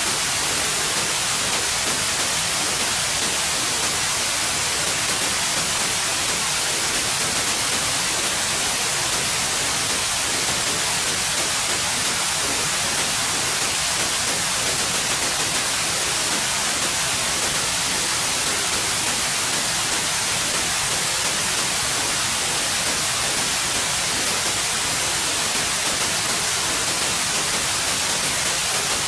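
Steady white noise: an even, unbroken hiss, brightest in the high frequencies, with no change in level.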